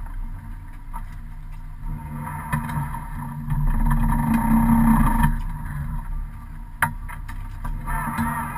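Rally car engine heard from inside the cabin, growing louder under throttle from about two seconds in and dropping back about five seconds in. A single sharp knock near seven seconds.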